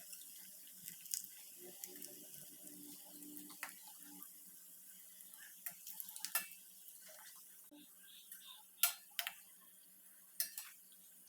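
Breadcrumb-coated cheese balls frying in hot oil on a low flame: a faint, steady sizzle with scattered crackles and pops.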